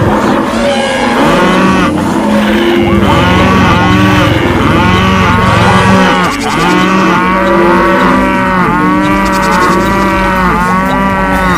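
A herd of cattle mooing, many calls overlapping at once over a low steady rumble, with a brief dip in level about six seconds in.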